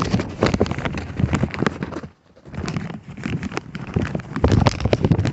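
Plastic bag crinkling and rubbing over a phone's microphone as the bagged phone is handled, a dense run of loud crackles and knocks with a short lull about two seconds in.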